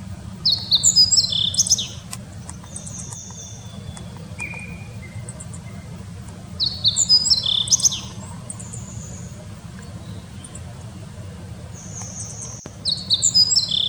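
A small songbird sings a short, quick phrase of high chirping notes three times, about six seconds apart, over a steady low rumble.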